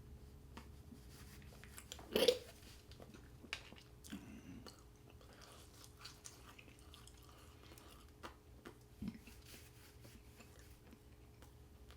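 A person chewing and eating Krispy Kreme donuts, quiet mouth sounds with soft scattered clicks, and a short louder sound about two seconds in.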